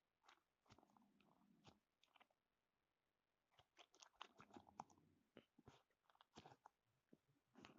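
Faint sounds of a dog chewing and crunching food: irregular runs of crunches and mouth clicks, with a pause of about a second near the middle.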